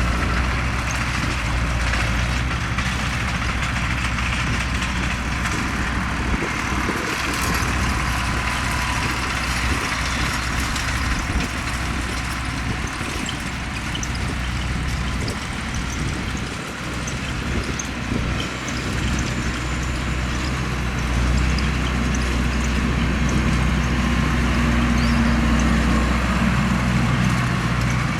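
Farm tractor engine running steadily with a low hum, swelling a little in loudness near the end.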